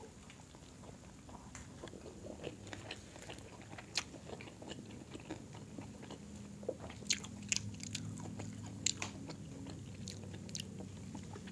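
Quiet close-miked chewing and biting of people eating grilled chicken and rice by hand, with scattered small wet clicks and lip smacks.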